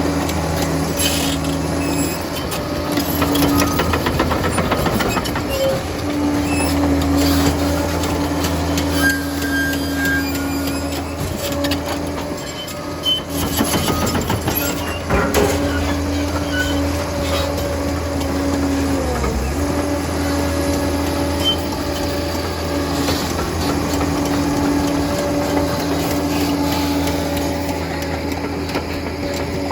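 Liebherr 746 crawler dozer working, its engine running at a steady pitch that dips briefly about two-thirds of the way through, with irregular clanking from its steel tracks.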